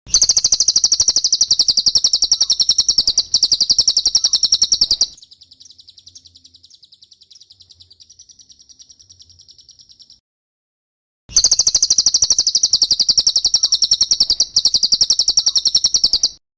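Cililin birdsong in a played masteran recording: a loud, very rapid high-pitched trill lasting about five seconds, a softer chattering phrase, a brief pause about ten seconds in, then the rapid trill again.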